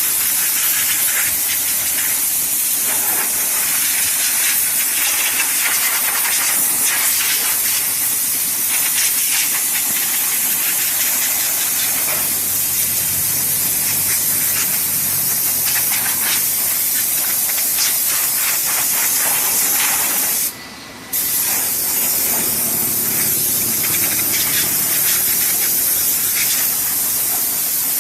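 Compressed air hissing steadily from a nozzle over the engine bay. It stops briefly about 20 seconds in, then resumes.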